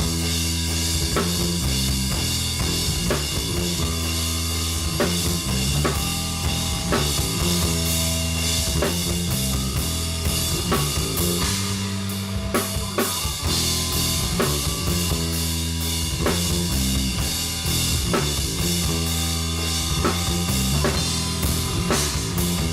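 Band playing live: a drum kit with bass drum and snare keeps a steady beat under sustained low notes that change pitch every second or so.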